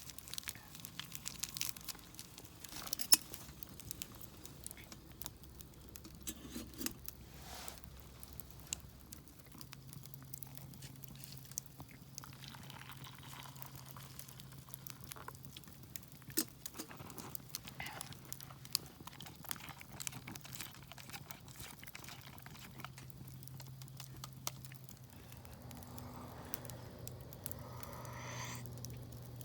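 Crinkling and tearing of a wrapper being handled and opened, with scattered small clicks; a faint low steady hum comes in about a third of the way through.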